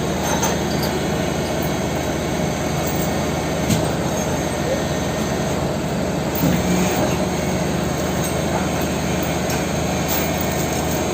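Heavy truck diesel engine running steadily, with a couple of sharp clicks about four seconds and ten seconds in.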